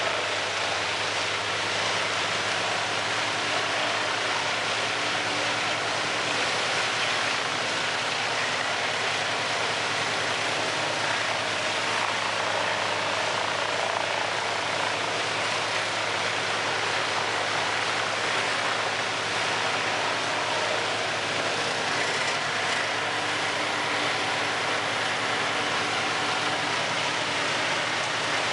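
Large wood chipper running steadily: a constant engine hum under a continuous rushing noise as it grinds a log into chips.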